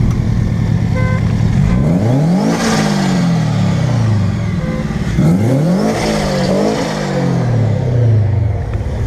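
A car engine idling, then revved twice. Each time the pitch climbs quickly and sinks back to idle over about two seconds, the first rev about two seconds in and the second about five seconds in.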